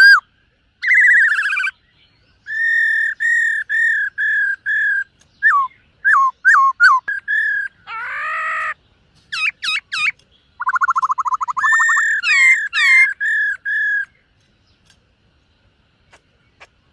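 Black-throated laughingthrush singing a varied song of loud, clear whistled phrases: looping notes, fast trills and runs of evenly repeated notes, with one rougher, lower note about eight seconds in. The song stops about three seconds before the end.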